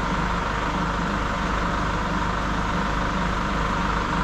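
Chevrolet Orlando's engine idling steadily, an even hum with no change in speed.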